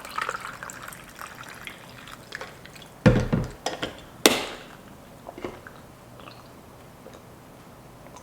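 Green tea being drunk: light liquid and sipping sounds, then a heavy knock about three seconds in and a sharp clink a second later, with a few small ticks after.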